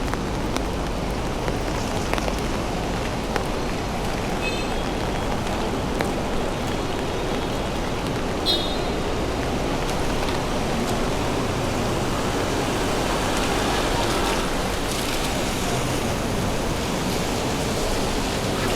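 Heavy rain falling steadily, an even hiss throughout. A couple of brief high squeaks break through, one about four and a half seconds in and another about eight and a half seconds in.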